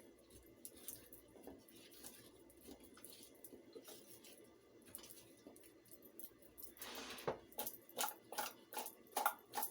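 Seasoned raw chicken being mixed in its dish, faint soft squishing, then near the end a quick swish and a run of clicks and knocks from the dish and utensils.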